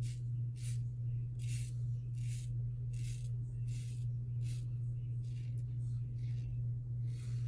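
Safety razor strokes, a Gillette Super Thin blade scraping lathered stubble on a third pass: about ten short raspy strokes, roughly one and a half a second. A steady low hum runs underneath.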